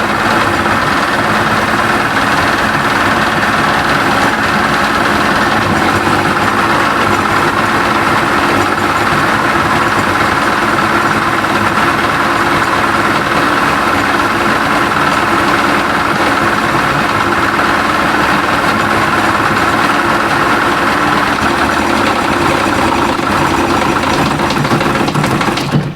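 1992 Johnson 60 hp two-stroke outboard motor running steadily at low speed while being tuned; the owner hears it missing every once in a while.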